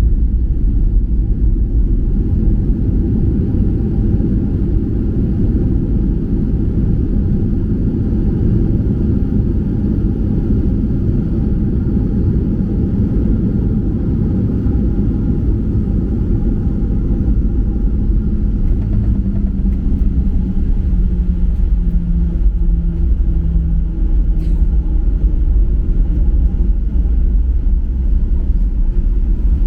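Steady low rumble of a Boeing 737-800 heard from inside the cabin: engine and airflow noise. A faint hum steps down in pitch about two-thirds of the way through.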